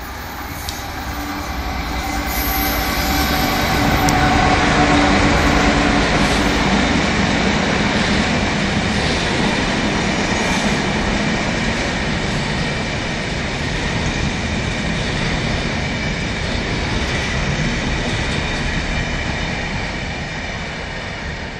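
A British Rail Class 66 diesel locomotive, with its two-stroke EMD twelve-cylinder engine running, passes hauling a freight train of tank wagons. The engine note fades after several seconds, leaving the steady rumble of the tank wagons' wheels rolling on the rails.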